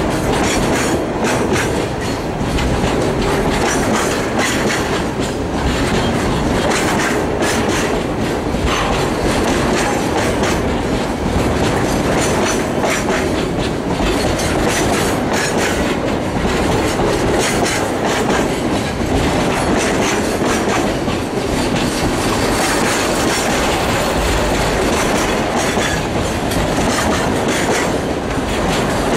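Freight train tank cars rolling past close by: a steady rumble of wheels on rail, with repeated clacks as the wheels cross rail joints.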